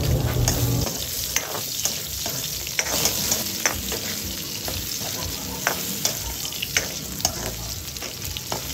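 Potato and carrot chunks sizzling in oil in a wok as they are half-cooked, stirred with a metal ladle that scrapes and clicks against the pan every second or so.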